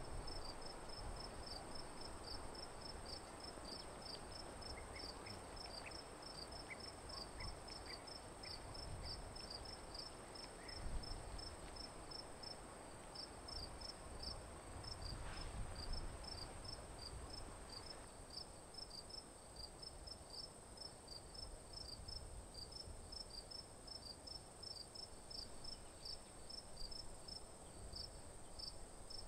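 Crickets chirping in a steady, regular pulse of short high chirps, about three a second, over a continuous high insect trill, with a low rumble of wind underneath.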